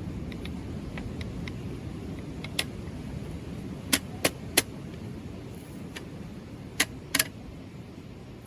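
Steady low rumble of strong wind and surf, with a scattering of sharp clicks and taps over it: faint ones in the first second or so, three loud ones about four seconds in, and two more near the end.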